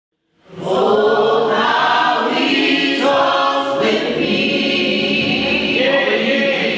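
Church choir singing gospel music; the sound comes in suddenly about half a second in.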